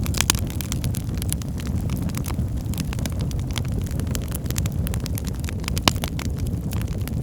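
Wood fire burning in a fireplace: frequent sharp crackles and pops over a steady low roar of the flames, with one louder pop about six seconds in.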